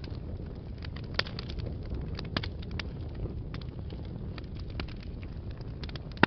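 Wood fire burning in a fireplace: scattered sharp crackles and pops over a low, steady rumble of flames, with one louder pop near the end.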